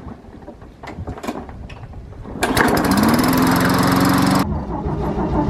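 A few faint clicks, then about two and a half seconds in a lawn mower engine starts running loudly, its pitch rising as it speeds up and then holding. About two seconds later it gives way to a lower, pulsing engine sound.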